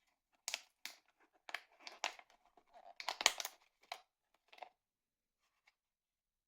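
Irregular clicks, crackles and rustling of small parts and material being handled at close range, densest about three seconds in and dying away near the end.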